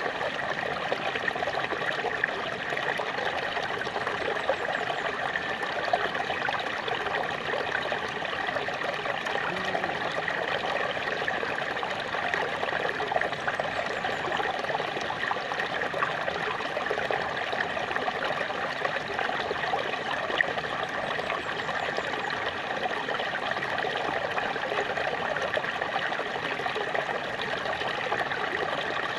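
Small waterfall splashing and trickling steadily, an even rush of falling water with no breaks.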